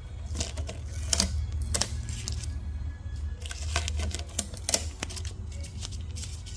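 Tape being peeled off a freshly painted engine in a series of short, irregular crackling rips, over a steady low hum and background music.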